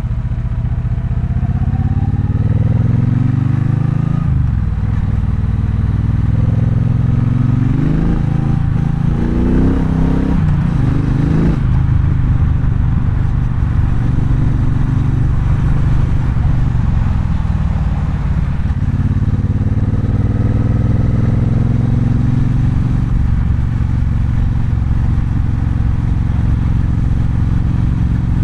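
Triumph Bonneville Bobber's 1200 cc parallel-twin engine pulling under acceleration, its pitch rising and dropping sharply at gear changes twice in the first half. It then settles into a steady cruise with a brief dip partway through.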